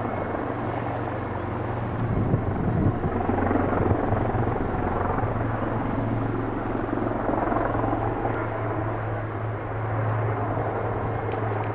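Helicopter in flight: a steady drone of engine and rotors over a constant low hum.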